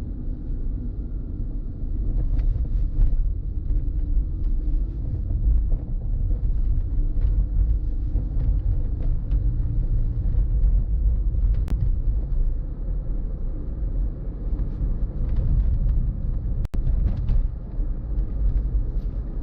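Steady low rumble of a car driving along a road, with faint scattered ticks over it; the sound drops out for an instant late on.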